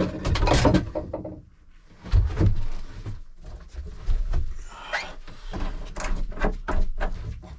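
Knocks, clatter and scraping of objects being handled and moved about inside a small boat's cabin, in a series of irregular sharp knocks.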